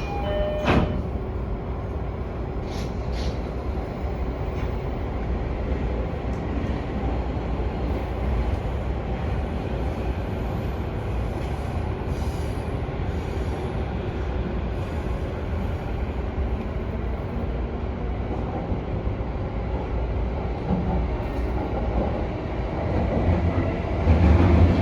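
Sobu Line commuter train running on the rails, heard from inside the front car: a steady rumble of wheels and running gear. There is a sharp click about a second in, and the rumble grows louder near the end.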